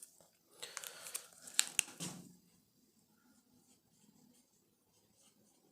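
Brief rustling with a few sharp clicks, like something being handled, for about the first two seconds, then faint room tone.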